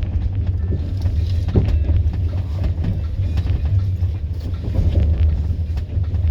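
Steady low rumble of a moving train car heard from inside, with scattered light clicks and rattles.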